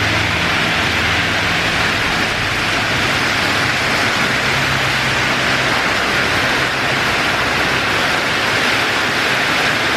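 Heavy tropical rain pouring down, a steady loud hiss. A low steady hum runs under it for about the first six seconds.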